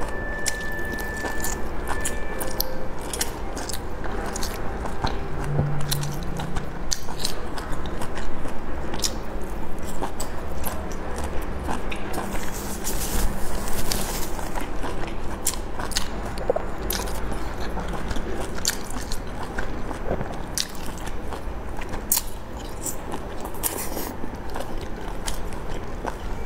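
Mouth sounds of a person biting into and chewing soft boiled dumplings, with many short smacking clicks.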